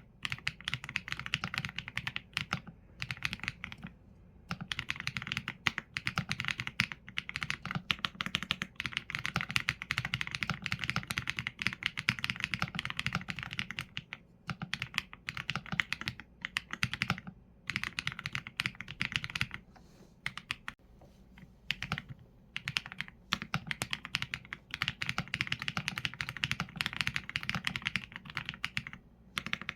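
Continuous typing on a Qsenn A75 mechanical keyboard with Leobog Graywood V4 linear switches and PBT keycaps: rapid runs of keystrokes broken by short pauses.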